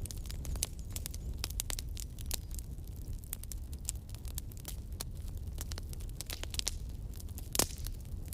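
Campfire crackling, with frequent small pops over a steady low rumble of flame and one louder pop near the end.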